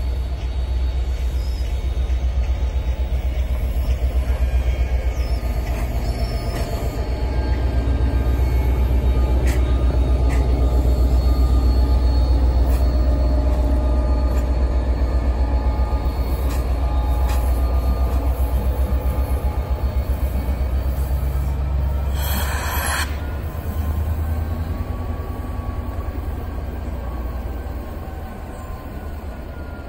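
New Jersey Transit commuter train of multilevel coaches pulling slowly out on a curve, its diesel locomotive giving a deep steady rumble that swells and then fades. Scattered wheel clicks and faint wheel squeal on the curve, and a one-second hiss about two-thirds of the way through.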